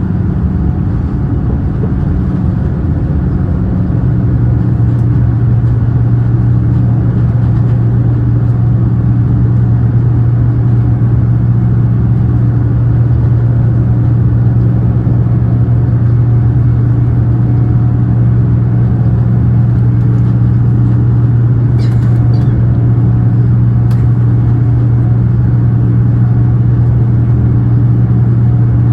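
Cabin noise inside a Boeing 787-9 airliner around takeoff: steady engine and airflow noise that grows louder about four seconds in and settles into a strong, even low drone, with a couple of faint cabin clicks near the end.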